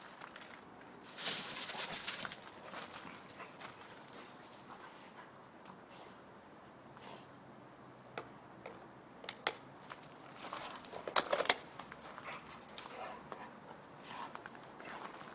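A dog moving about, with bursts of scratchy scuffling and sharp clicks: one about a second in and a louder cluster around ten to eleven seconds in.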